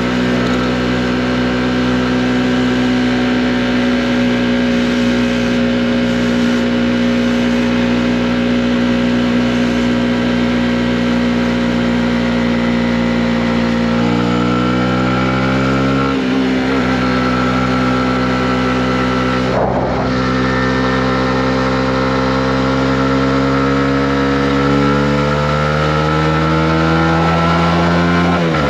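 Honda CB125R's single-cylinder four-stroke engine running as the motorcycle is ridden: steady cruising at first, then from about halfway the engine note climbs under acceleration, with short breaks at gear changes.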